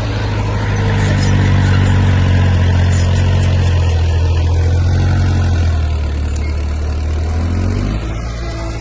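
Heavy diesel engine of earth-moving equipment running steadily under load, loud and low, settling lower near the end.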